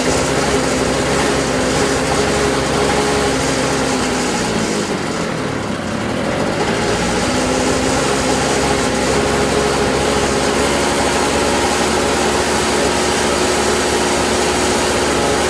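Evers snowblower's small engine running on its freshly cleaned carburetor and spark plug. Its speed sags about two to five seconds in, then picks up a little faster and holds steady as the throttle is turned up from too slow.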